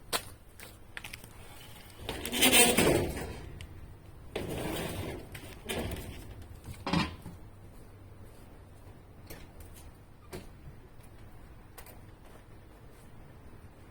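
Handling noises: a few short scrapes, the loudest about two and a half seconds in, then a sharp knock about seven seconds in and faint ticks.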